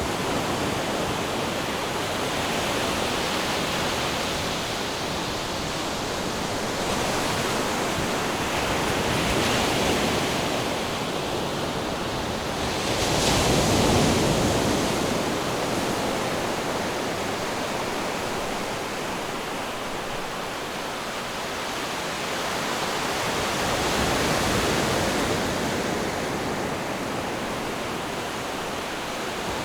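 Ocean waves washing onto a shore: a continuous rushing surf that swells and eases every several seconds, the biggest surge about halfway through.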